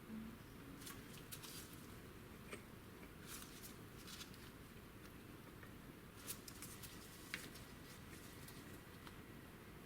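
Faint scattered clicks and small taps as the fuel injector rail and its injectors are worked out of the intake manifold ports by hand, over a low room hiss.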